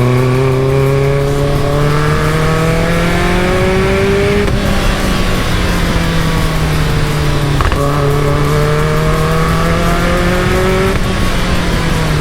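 Caterham Super Seven engine pulling through the gears: the revs climb steadily, drop at an upshift about four and a half, eight and eleven seconds in, then climb again.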